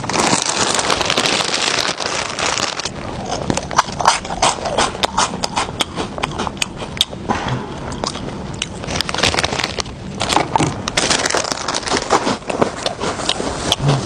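Loud, exaggerated eating of a crunchy snack. The first few seconds are dense crackling, then comes a long, irregular run of sharp crunches and chewing sounds close to the microphone.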